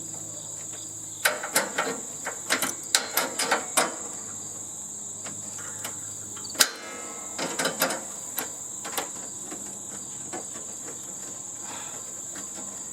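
Sharp metallic knocks and clicks from working a screwed-on expanded-metal cover loose on a heating and air-conditioning unit, in a run of quick taps about a second in, a single sharp crack past the halfway point, then a few more knocks. A steady high-pitched whine sounds underneath throughout.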